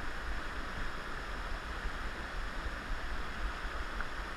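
Steady rush of flowing river water with a low, steady rumble underneath.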